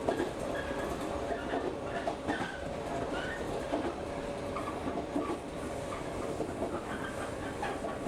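Local electric train running, heard from inside the carriage: a steady rumble with faint steady tones, and irregular clacks and rattles from the wheels and car body.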